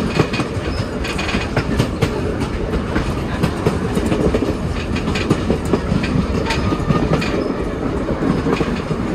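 Heritage passenger train cars rolling along the track, wheels on rails giving a steady rumble with irregular clicks and knocks.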